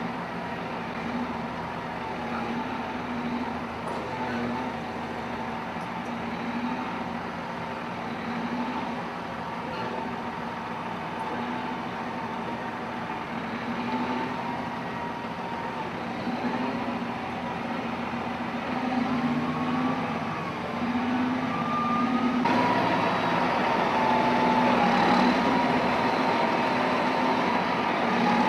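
Heavy diesel machinery running steadily, with a wavering whine over the engine note. It gets suddenly louder about 22 seconds in.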